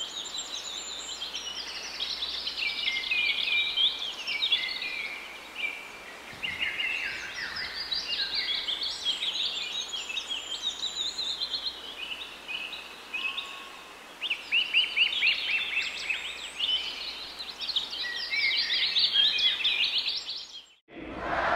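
Songbirds singing, a dense run of quick chirping phrases over a steady background hiss, cutting off suddenly near the end.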